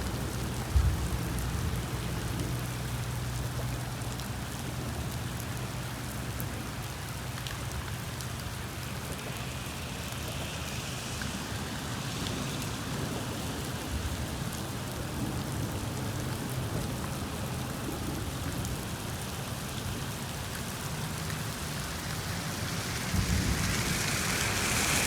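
Rain falling steadily on a moving car, over a low steady hum from the car on the road, with a single sharp knock about a second in. The hiss swells around ten seconds in and again near the end.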